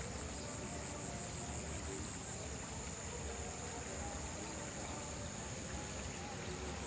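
A steady high-pitched insect trill, pulsing evenly for the first couple of seconds, over faint low background noise.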